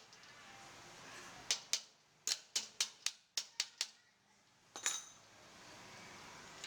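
A series of sharp, light taps: two about one and a half seconds in, then a quick run of about six at roughly four a second, then one more near five seconds.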